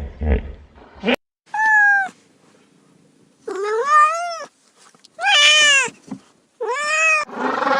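Domestic cat meowing four times, each meow a drawn-out call that bends up and down in pitch. The first second holds a few low grunts.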